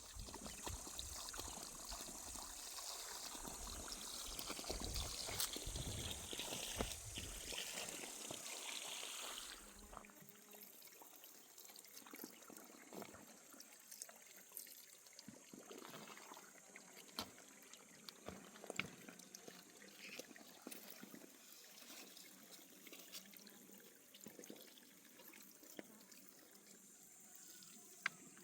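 Water running and trickling, stopping abruptly about ten seconds in; after that, only faint scattered small clicks and ticks.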